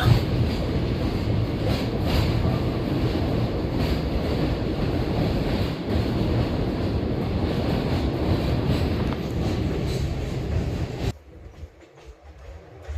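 Train running along the track: a steady rumble of wheels on rails with occasional knocks. It drops away suddenly about eleven seconds in, leaving a much quieter background.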